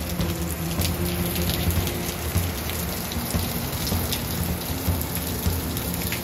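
Heavy rain pouring down, a steady hiss with scattered drop ticks, over background music.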